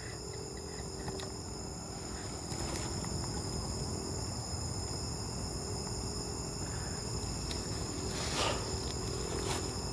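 Steady night chorus of insects, crickets or cicadas, trilling high and continuously over a low rumbling background noise that gets a little louder about two and a half seconds in.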